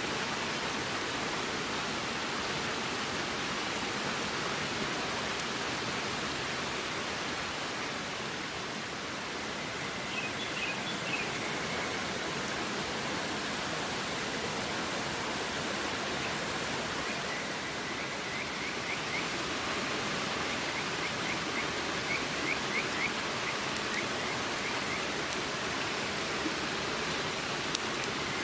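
River water rushing steadily, with short runs of high, rapid chirps about ten seconds in and again through the second half.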